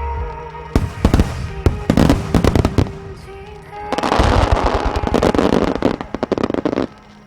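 Aerial fireworks bursting: a run of sharp bangs in the first few seconds, then a dense crackling barrage that stops abruptly near the end. Music plays underneath.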